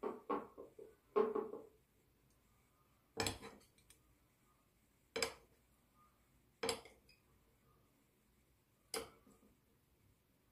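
Dishes and cutlery clinking and knocking. There are two quick runs of clinks in the first two seconds, then four single knocks spaced a couple of seconds apart.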